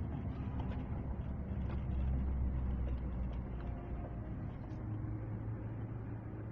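Steady low rumble of a running vehicle engine, its hum stepping up slightly in pitch about five seconds in.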